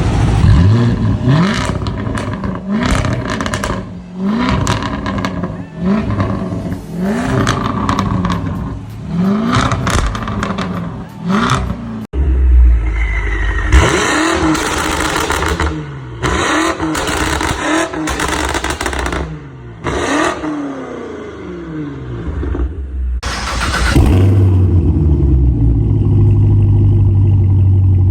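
V8 engines revving through their exhausts: a run of quick throttle blips, about one every second and a half, then after an abrupt change more revs rising and falling, and near the end a steady low drone.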